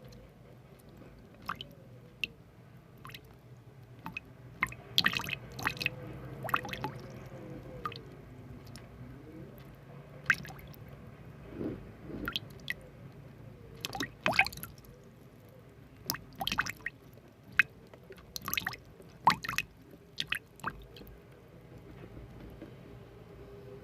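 Irregular wet squishing and clicking sounds, with sharp pops coming singly and in clusters rather than in a steady rhythm.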